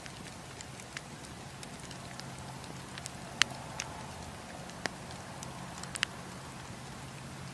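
Wood campfire crackling, with scattered sharp pops and snaps over a steady low background hiss. The loudest pop comes about three and a half seconds in, and a few more follow over the next few seconds.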